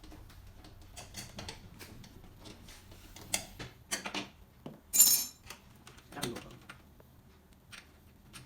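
Metal clicks, scrapes and clinks of a tool working the drum's shipping bolts out of the back of a front-load washing machine, with one sharp metallic clank about five seconds in.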